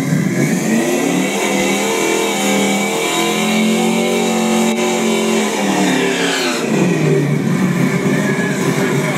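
Drag-racing car's engine revving up during a smoky burnout, its pitch climbing and holding high for a few seconds, then dropping back to a lower steady run about two-thirds of the way through.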